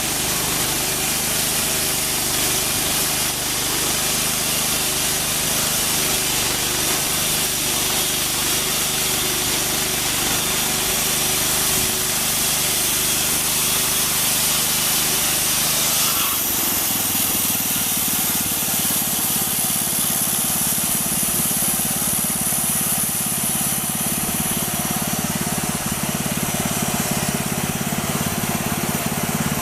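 Homemade sawmill running, its engine steady while the blade saws through wood. About sixteen seconds in, the engine note and the cutting hiss change abruptly.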